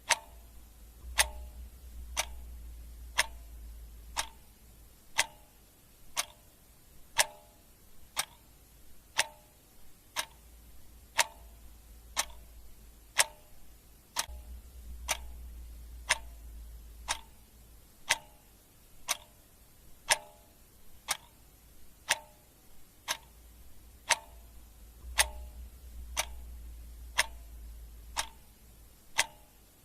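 Clock ticking steadily, a sharp tick-tock of about two ticks a second, alternating stronger and weaker. A faint low rumble swells and fades beneath it a few times.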